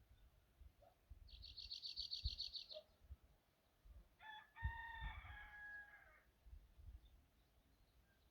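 A rooster crows once in the distance, a single call of about two seconds starting about four seconds in. Shortly before it, a small bird gives a quick, high, buzzy trill lasting about a second and a half.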